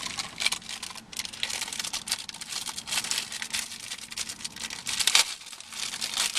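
Crinkling wrapper of a chocolate Easter bunny being handled and torn open, a dense irregular crackle with sharper tearing pulls.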